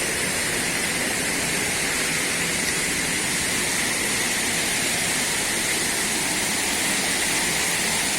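Steady rush of water pouring down a waterfall, an unbroken hiss with no changes.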